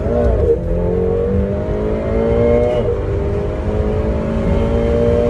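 McLaren sports car engine heard from inside the cabin, pulling under acceleration: its pitch climbs steadily, drops suddenly about three seconds in at an upshift, then climbs again.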